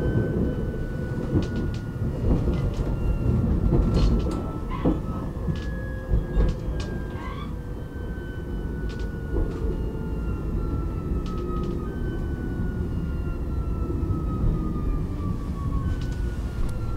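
Electric SL commuter train heard from inside while it rolls into a station: a steady low rumble of wheels on rail, with scattered clicks as the wheels cross points and joints. Over this runs a faint electric whine that falls in pitch and then starts again higher, about every five seconds, typical of the traction motors as the train slows.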